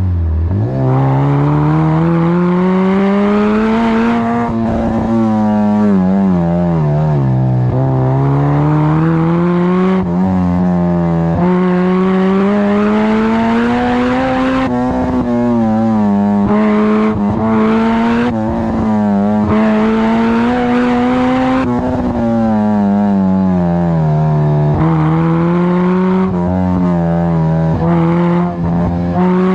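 Honda Civic Type R EP3's 2.0-litre i-VTEC four-cylinder engine, heard through a well-baffled exhaust, revving up and down repeatedly. The note climbs steadily for several seconds to a high pitch, falls back, and climbs again.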